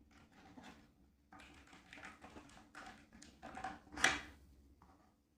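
Faint scattered taps and clicks of wires and tools being handled while bulb wires are connected to contactor terminals, with one sharper click about four seconds in.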